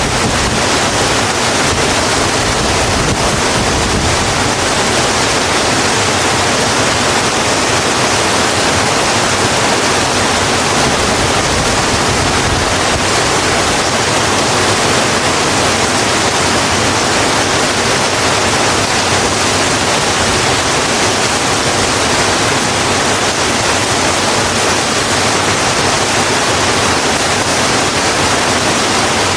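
Rain falling steadily on a road: a loud, even hiss with no breaks or separate drops standing out.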